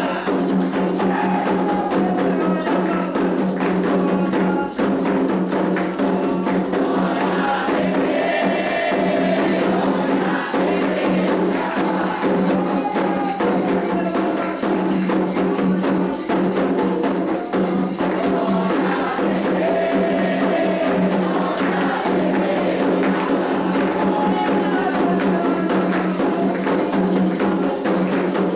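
Candomblé atabaque drums and other percussion playing a continuous ceremonial rhythm (the 'rum' for Iansã), with voices singing over it.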